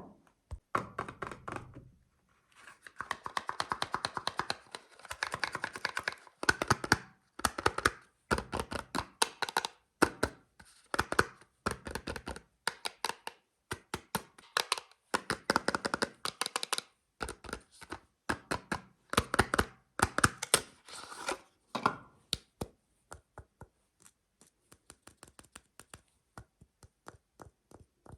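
Soap being unpacked and tapped: a quick run of sharp taps and crinkles on the bar and its packaging, thicker in some stretches, thinning to light, spaced taps near the end.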